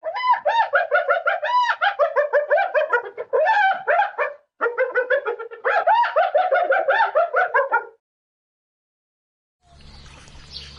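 An animal calling in a rapid run of short, high-pitched yelps or chirps, several a second, with a brief break about four and a half seconds in; the calling stops about eight seconds in, and a faint steady hum follows near the end.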